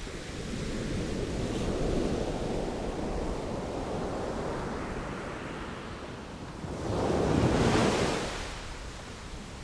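Sea waves washing in and out. A larger wave surges up about seven seconds in, then recedes.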